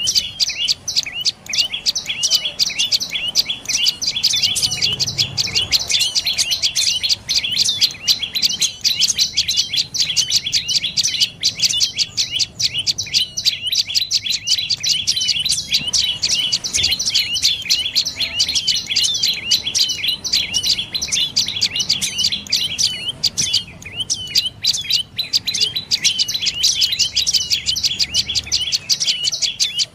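Dark-necked tailorbird calling: a rapid, nearly unbroken series of sharp, high chirps, several a second, thinning briefly a couple of times.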